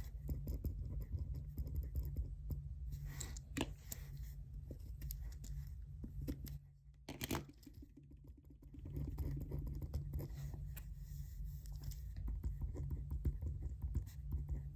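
Pen or pencil scratching on paper in short, irregular strokes, with small taps, over a steady low hum. A little past the middle the writing pauses for about two seconds, broken by a single tap, then resumes.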